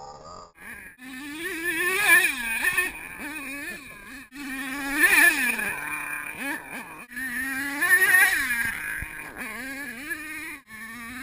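HPI Savage X 4.6 RC monster truck's small two-stroke nitro engine revving up and backing off over and over, with about three big surges a few seconds apart.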